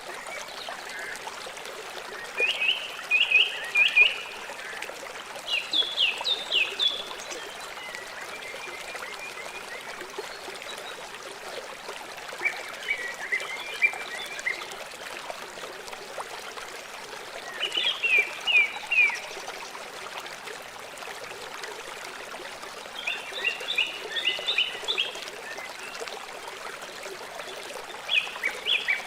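River water running and trickling steadily. Over it, short series of high chirping calls from an animal come every few seconds, each series a handful of quick repeated notes.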